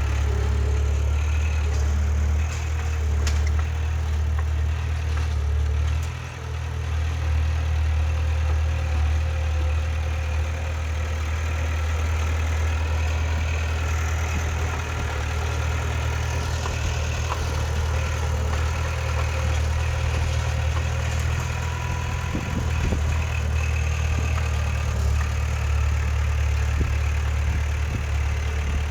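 Heavy earthmoving machine's diesel engine running steadily with a deep, low drone, dipping briefly about six seconds in.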